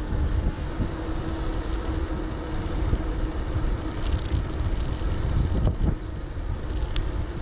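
Wind rushing over a bike-mounted action camera's microphone while an electric bike is ridden, with a steady hum from the e-bike running underneath. A couple of short knocks come near the end.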